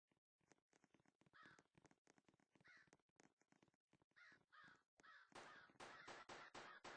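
A bird calling: separate calls about a second apart, then a fast run of short repeated calls, about four or five a second, from about five seconds in.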